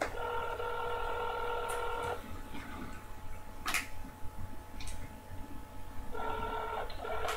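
Telephone ringback tone heard through a phone's speakerphone while an outgoing call rings unanswered. It rings for about two seconds, stops for about four, then rings again near the end.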